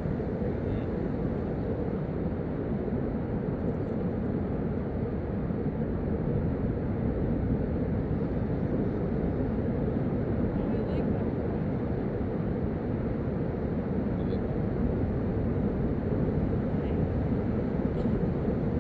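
A steady low rumbling noise at an even level, with no distinct events.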